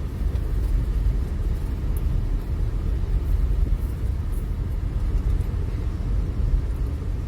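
Steady low rumble of a car or truck driving, engine and road noise heard from inside the cab.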